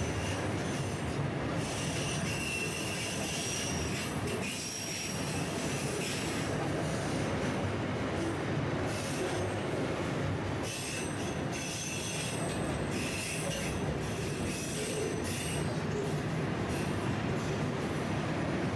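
Freight train rolling past, its steel wheels squealing on the rails with a steady rumble, the squeals coming and going in high thin tones.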